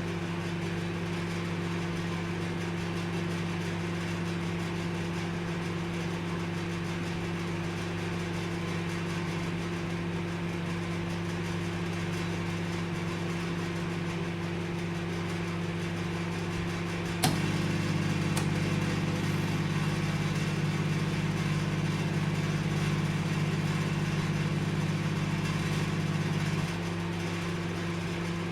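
Microwave oven running with a steady hum. About two-thirds of the way through a relay clicks and the hum grows louder and heavier for around nine seconds before dropping back, the magnetron cycling on and off as at a reduced power setting.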